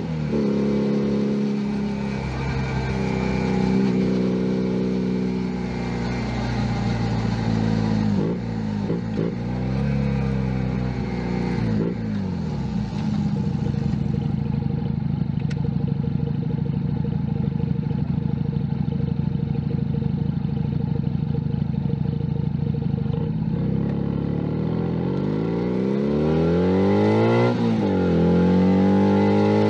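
Junak M11 Cafe's 125 cc single-cylinder engine, heard from on the bike: it runs through the gears, then the revs fall away as it slows and it sits at a steady low idle for several seconds. Near the end it revs up, drops briefly at a gear change, and climbs again as the bike pulls away.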